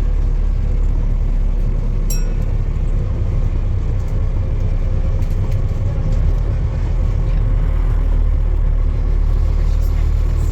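Steady low rumble of a running motor vehicle, with a single short sharp click about two seconds in.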